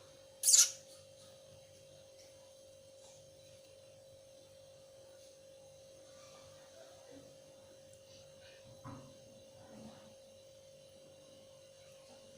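A steady, faint hum on one pitch, with a short, sharp rattle about half a second in and two soft knocks near the end.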